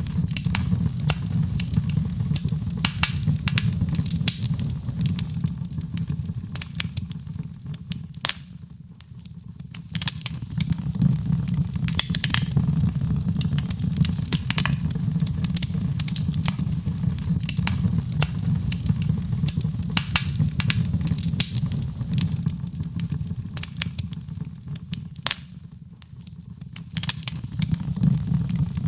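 Wood fire in a fireplace crackling and popping, with many sharp snaps over a steady low rumble of flames. It fades down briefly twice and swells back.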